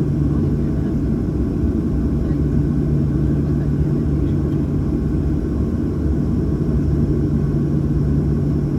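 Steady cabin rumble of a Boeing 737-800 with its CFM56 engines running at a constant low setting, with an even hum and no spool-up.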